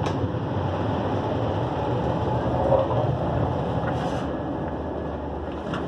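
Steady rumble and rush of a Railjet passenger coach running at speed on the rails, heard from inside the car, with a few brief clicks.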